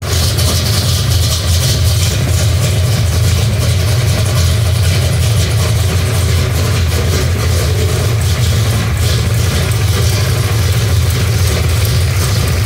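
A 1969 Ford Mustang Mach 1's V8, fitted with Holley Terminator Stealth fuel injection, idling steadily with a deep, even exhaust rumble. The engine is still cold, just after a cold start.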